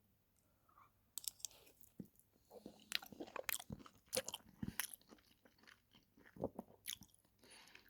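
A person chewing a mouthful of chicken and mushroom fried rice close to the microphone: faint, irregular mouth clicks and smacks that begin about a second in.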